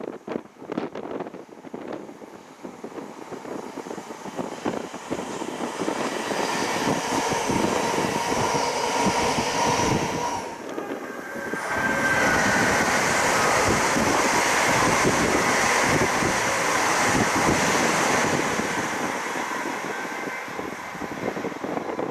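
A passenger train passing at speed on the East Coast Main Line, with a broad rushing wheel-and-rail sound. It builds over the first few seconds, dips briefly about halfway, comes back loud, and fades near the end.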